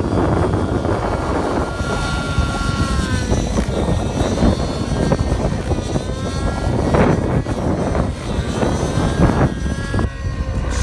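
Radio-controlled model aircraft flying, its motor whine gliding up and down in pitch as the throttle changes, under heavy wind rumble on the microphone.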